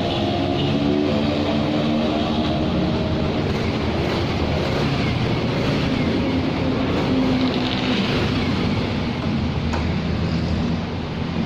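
A motor scooter running while being ridden, with wind rushing over the microphone.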